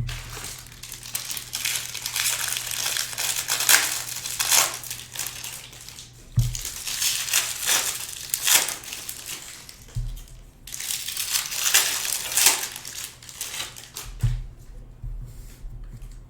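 Crinkling of trading-card pack wrappers being handled and opened, in several stretches with short pauses, with a few low thumps in between.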